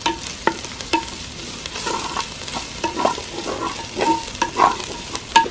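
Chopped shallots, green chillies, curry leaves, crushed garlic and ginger sizzling in hot coconut oil in a clay pot, stirred with a wooden spoon. The spoon scrapes and knocks repeatedly against the pot over a steady frying hiss.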